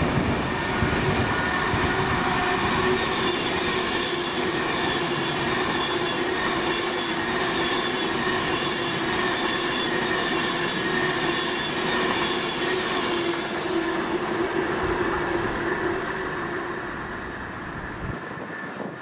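A train running past on the main line: steady rail and wheel noise with a high steady whine over it, dying away over the last several seconds as it recedes.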